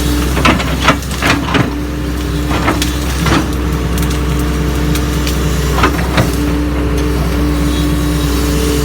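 Diesel engine of a Doosan DX140 hydraulic excavator running steadily under work, with a series of sharp cracks and knocks from the machine working the ground: several in the first three and a half seconds, then two close together about six seconds in.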